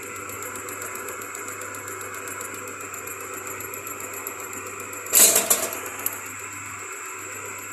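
Steady mechanical running noise with a fast, fine ticking and a high whine, broken about five seconds in by one loud, sudden burst lasting about half a second.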